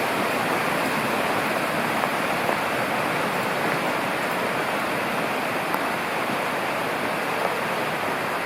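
Mountain river rushing steadily, with a few faint clicks over it.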